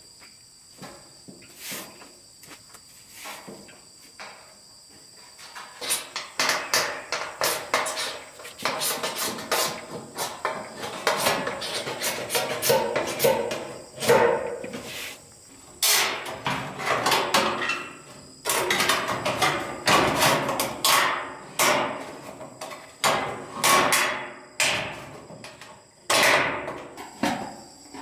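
Hammer blows, a few light taps at first, then from about six seconds in many sharp strikes in quick irregular runs. A steady high insect trill sounds in the background.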